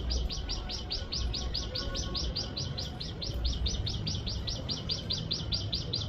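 A bird chirping in a fast, even series of short high notes, about five a second, without a break.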